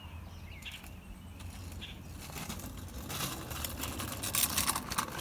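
Crackling and rustling that grows denser and louder from about two seconds in, with a few faint bird chirps in the first two seconds.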